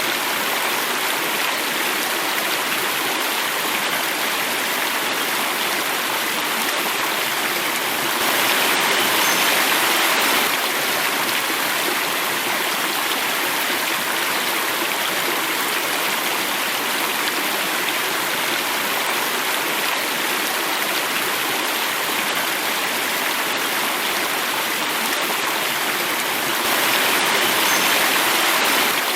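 Running stream water flowing and falling over a small cascade, a steady rush that swells a little about eight seconds in and again near the end.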